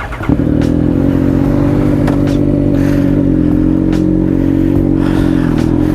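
Triumph Speed Triple RS inline-three engine through an SC Project titanium exhaust, running at steady revs under way.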